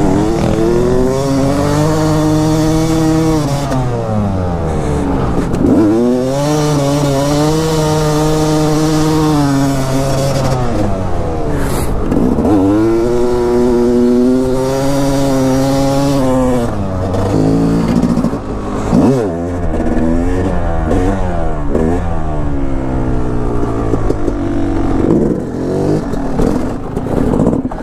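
Dirt bike engine accelerating and easing off in repeated cycles, its pitch climbing and then dropping every five or six seconds as the bike powers out of and backs into turns on ice.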